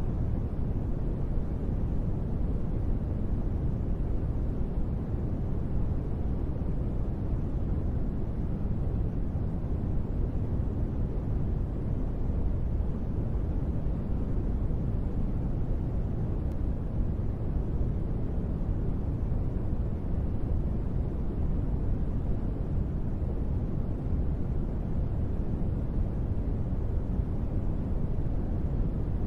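Continuous sleep noise: a steady, deep, rumbling hiss with most of its weight low and little treble, unchanging throughout.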